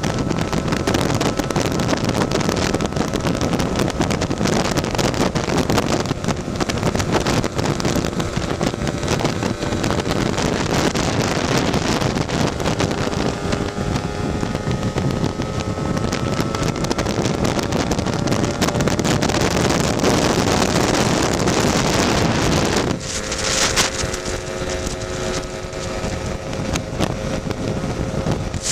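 Tuned Lambretta scooter's two-stroke single-cylinder engine running at road speed under heavy wind noise on the microphone, its pitch shifting slowly. The engine note eases and the wind drops for a few seconds near the end.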